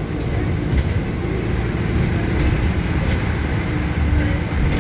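Bus moving, heard from inside the cabin: a steady low engine and road rumble, with a few short rattles or clicks.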